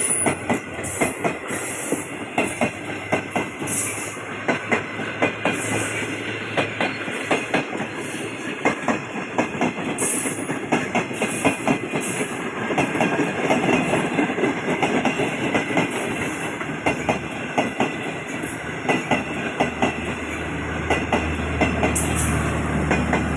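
A train running along the track, its wheels clacking over the rail joints in many quick, irregular knocks above a steady rumble.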